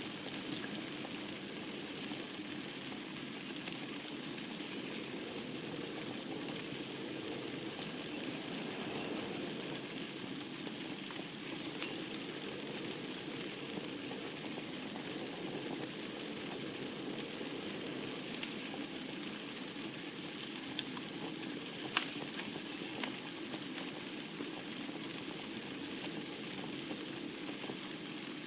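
Wood burning in a fireplace: a steady low rustling hiss with scattered sharp crackles and pops, the loudest pop about 22 seconds in.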